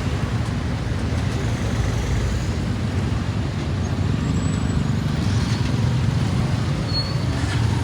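Steady low rumble of a motorcycle ride through city traffic, engine and road noise blended together.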